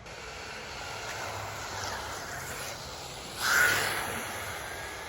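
Small electric RC rally cars with brushless motors driving hard, their motors whining over a hiss of tyre and wind noise. The sound swells briefly about three and a half seconds in, as a car passes close.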